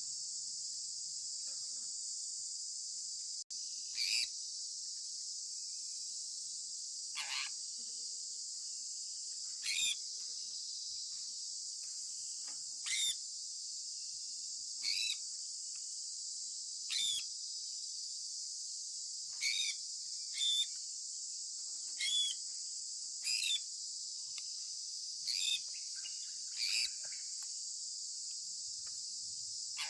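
Sun conure parrot giving short, sharp chirps about every two to three seconds, over a steady high-pitched hiss that sounds like insects.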